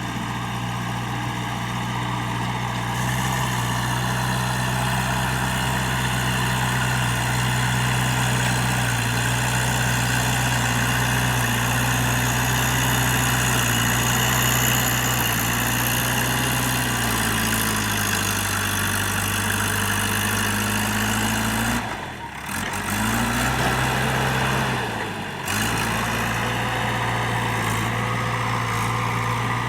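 JCB 3DX backhoe loader's diesel engine running steadily. Its note drops a little about halfway through, and the sound briefly dips twice near the end.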